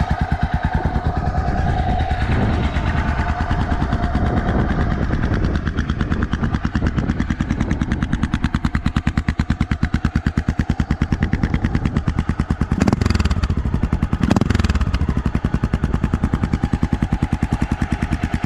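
Honda XR650L's single-cylinder four-stroke engine running through an old White Brothers aftermarket exhaust, a fast even thumping pulse, with two short louder moments about two-thirds of the way in.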